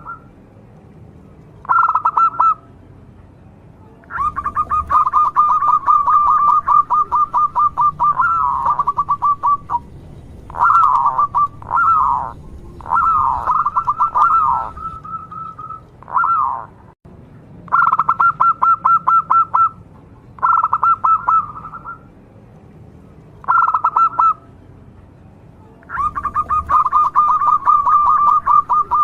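Zebra dove (perkutut) calling in repeated bursts of rapid cooing notes on nearly one pitch. Some bursts are short and others run for several seconds.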